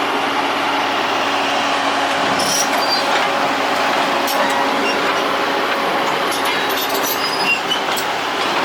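Excavator diesel engine running steadily under load, with scattered sharp metallic clinks and clanks from the machine's steel parts.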